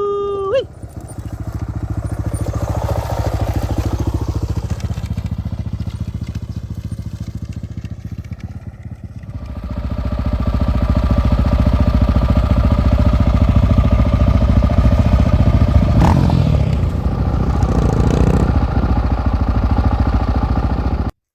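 Honda XR650R single-cylinder four-stroke dirt bike engine running while riding, after a short pitched tone at the very start. The engine eases off for a few seconds, then pulls louder from about halfway, with a sharp knock partway through, and the sound cuts off suddenly at the end.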